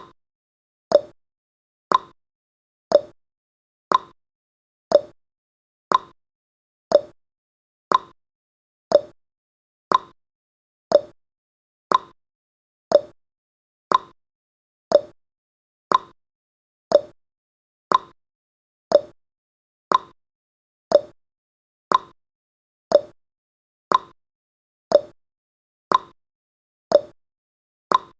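Countdown timer's clock-tick sound effect: one sharp tick each second, alternating slightly in pitch like a tick-tock, with silence between.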